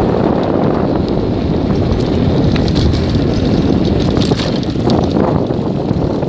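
Wind buffeting the microphone of a camera on a moving bicycle, a steady loud rumble, with scattered light clicks and rattles from the bike on the trail.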